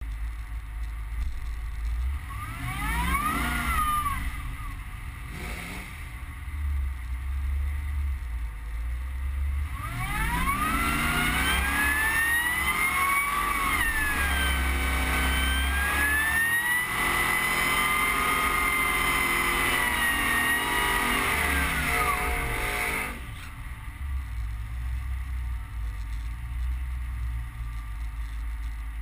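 Supercharged 6.0 L LQ4 V8 truck with a TVS1900 Magnuson supercharger, revving briefly once and then pulling hard: the high supercharger whine climbs with the revs, dips once, climbs again and holds, then falls away as the engine comes off the throttle.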